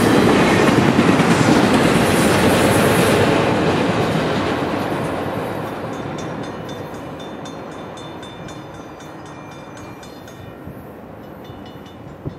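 Intermodal freight cars carrying double-stack containers and trailers rolling past, the rolling rumble fading steadily as the end of the train goes by. As it dies away, a railroad crossing bell's rapid dings come through.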